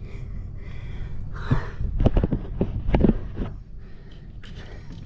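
A heavy washing machine being shifted and handled: a series of loud knocks and clanks over about a second, preceded by a heavy breath of effort.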